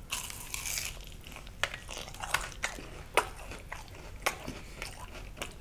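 Close-miked bite into a fried, pancake-battered sausage patty, then chewing with scattered crisp crackles from the airy, crunchy fried batter.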